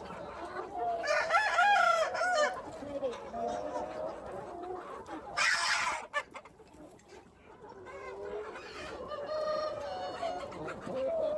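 Free-range chickens clucking, with a rooster crowing for about a second and a half about a second in. There is a short rushing noise about five seconds in, and more calls near the end.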